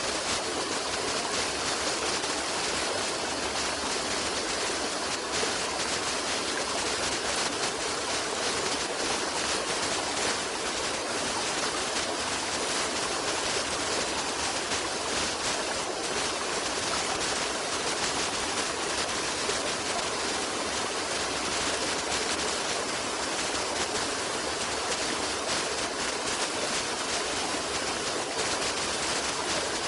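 Stream water flowing steadily, an even rushing hiss with no breaks or changes.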